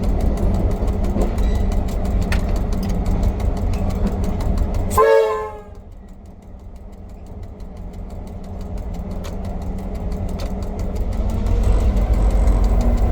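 Former V/Line P20 diesel-electric locomotive engine running with a heavy low rumble. About five seconds in there is a brief wavering pitched sound, and then the engine sound drops away sharply before slowly building back up.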